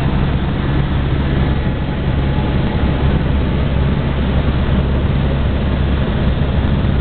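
Helicopter in flight, heard from on board: a loud, steady engine and rotor drone with a low hum under an even rushing hiss.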